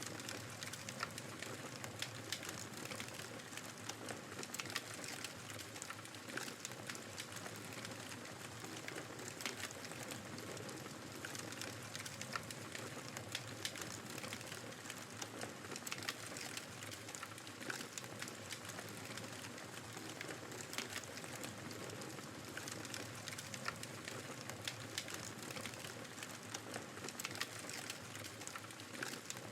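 Wood fire crackling with frequent sharp pops over a steady rush of blizzard wind.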